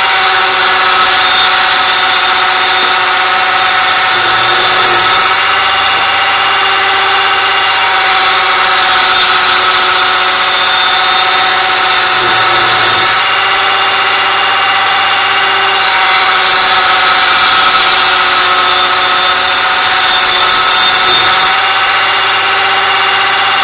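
A 1990-built Mogilevliftmash IE-6009 combination woodworking machine running, its motor giving a steady whine, while it cuts wood in long passes several seconds each. There are short gaps between passes where only the running machine is heard.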